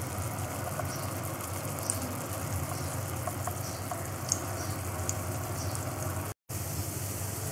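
Potato and breadcrumb patties shallow-frying in hot oil in a nonstick pan: a steady sizzle with scattered small crackles over a low steady hum. The sound cuts out briefly about six and a half seconds in.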